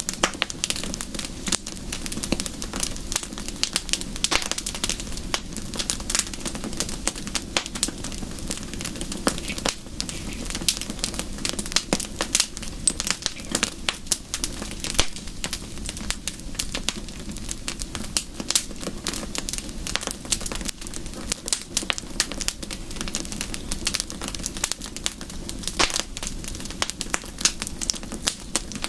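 Wood fire crackling: dense, irregular pops and snaps over a steady low background.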